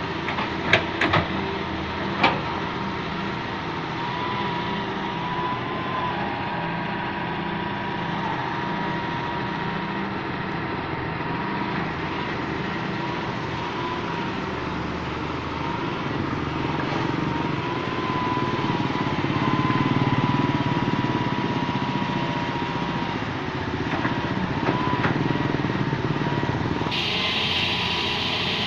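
Hitachi EX200 excavator's diesel engine running steadily, with a steady high whine over it. A few sharp knocks come in the first couple of seconds, and the engine grows louder about two-thirds of the way through.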